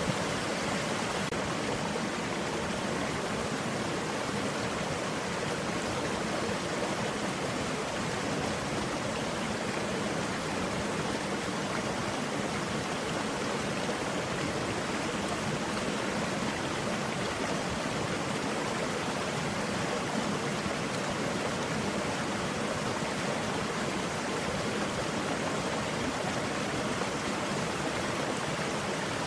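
Small stream running with an even, steady rush of water.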